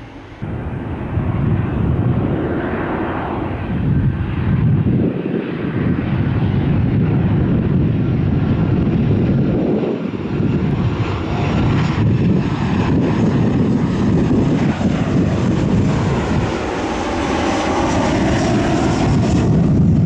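Airliner passing close by, a loud, continuous rush of jet-engine noise that jumps up about half a second in and stays loud, with gliding tones shifting near the end.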